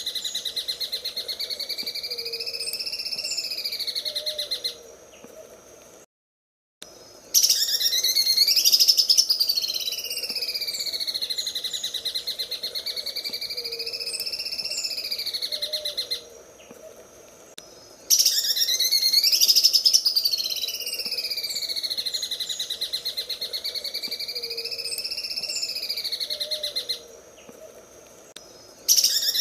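Greater green leafbird (cucak ijo) singing its 'sewing machine' song: a long, rapid, buzzing trill that swoops up and down in pitch. The phrases last about nine seconds each, with short pauses between them.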